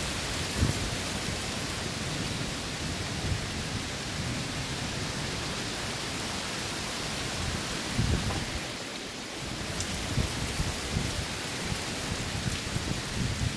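Storm rain falling steadily, a continuous hiss, broken by short low thumps about a second in and several times in the second half.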